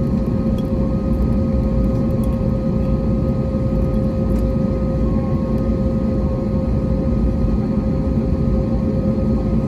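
Steady cabin noise of an Airbus A321neo in flight: a constant rumble of engines and airflow with a steady hum tone over it.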